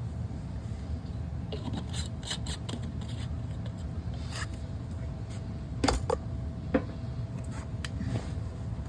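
Light scraping, rubbing and clicking of pipe and fittings being handled, with two sharper knocks about six and seven seconds in, over a steady low hum.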